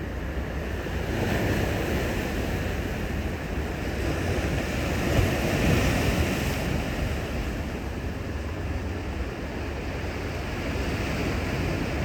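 Sea waves washing in on the shore, swelling about a second in and again around five to six seconds, with wind buffeting the microphone.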